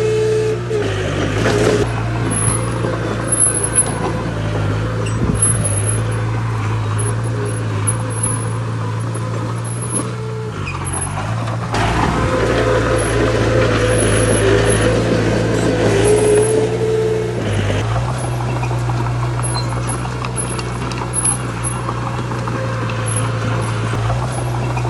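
Heavy diesel earthmoving machinery running steadily under load. The engine note dips briefly twice, about halfway through and again about two-thirds of the way in, then picks back up.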